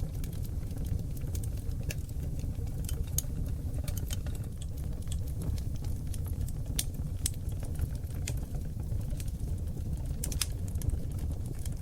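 Oak logs burning in a wood fireplace: a steady low rumble of flames with irregular sharp crackles and pops scattered throughout, a few of them noticeably louder.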